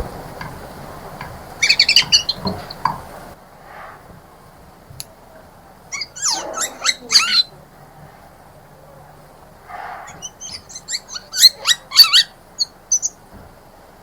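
Songbirds chirping in three short bursts of quick, high notes, some of them sliding down in pitch.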